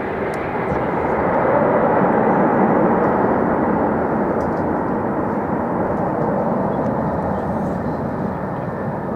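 Jet airliner engines passing nearby: a steady rush of engine noise that swells about two seconds in and then slowly fades.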